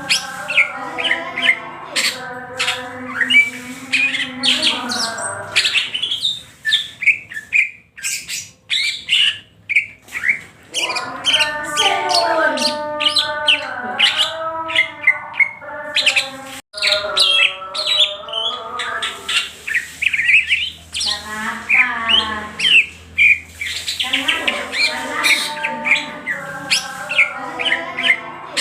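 Green leafbird (cucak hijau) singing continuously in a loud, varied run of sharp chirps and gliding whistled phrases, with brief lulls about a third of the way in and again later.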